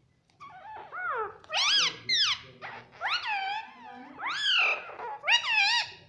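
Pet parrot calling: a rapid series of loud, high calls, each swooping up and down in pitch, about six or seven in a row.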